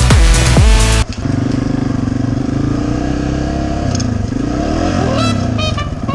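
Electronic dance music for about the first second, cutting off abruptly, then dirt bike engines running steadily, with a higher whine that rises and falls a couple of times near the end.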